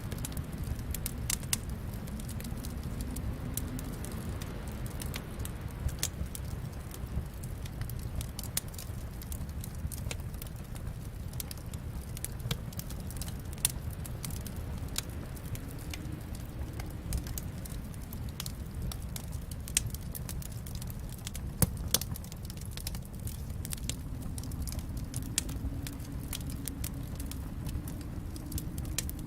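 Wood fire burning in a fireplace: a steady low rumble with irregular crackles and sharp pops, a few louder snaps standing out.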